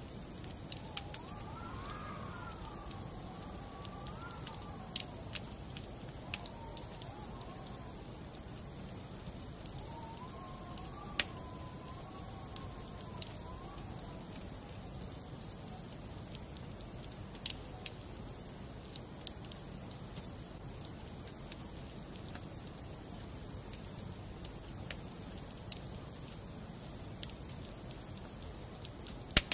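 Wood fire crackling in a fireplace: irregular sharp snaps and pops over a steady low hiss. Twice, a faint wavering whistle drifts up and down for a few seconds.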